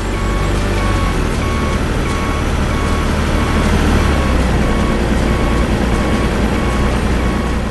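Truck engine rumbling steadily, with a high electronic beeping that repeats at an even pace throughout, like a reversing alarm.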